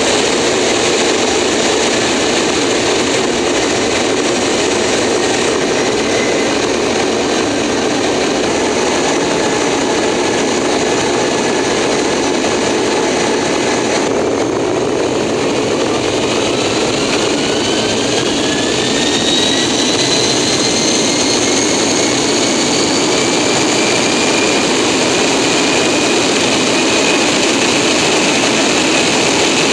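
Boeing 747 jet engines heard from the landing gear: a loud, steady roar, with a whine that starts rising about halfway through and then levels off as the engines spool up.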